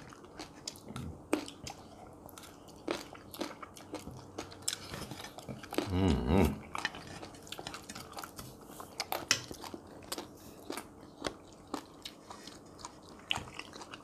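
People chewing and crunching food close to the microphone, with many small sharp clicks and crunches. A brief voice sound, a hum or murmur, comes about six seconds in.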